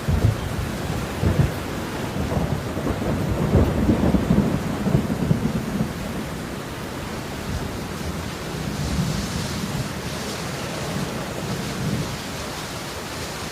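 Steady rain with a low rolling rumble of thunder that swells in the first few seconds, peaks about four seconds in and dies down by about six seconds.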